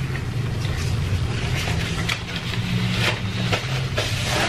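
Close-miked chewing of pizza, with scattered short mouth clicks and crackles, over a steady low hum.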